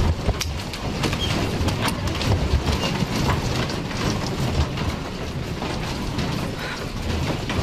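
Ground shaking in an earthquake: a steady low rumble with many small rattles and clatters of loose objects.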